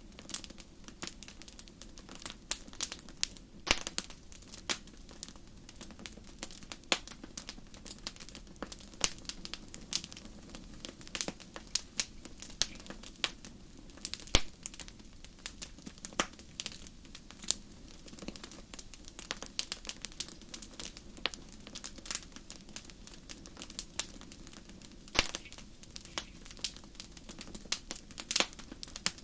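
Fireplace fire crackling: irregular sharp pops and snaps, often several a second, over a low steady hush.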